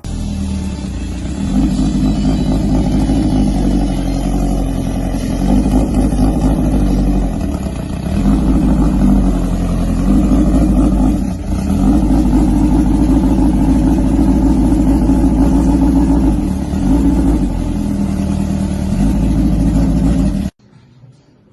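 Engine of a VW Karmann Ghia drag car running loud and being revved, the level rising and dipping several times; it stops abruptly about a second before the end.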